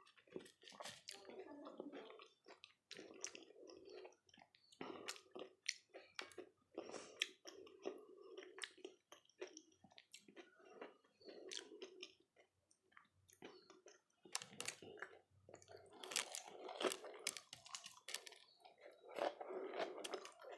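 Close-up eating sounds of dahi golgappe (pani puri filled with curd): the crisp puri shells crunching and crackling between the teeth, then wet, squelchy chewing.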